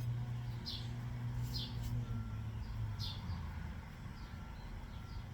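A small bird chirping, short high falling chirps repeated every second or so, over a steady low hum.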